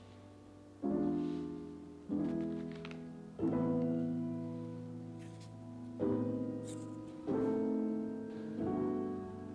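Background music: slow, soft piano chords, a new chord struck about every second and a quarter and each left to ring and fade.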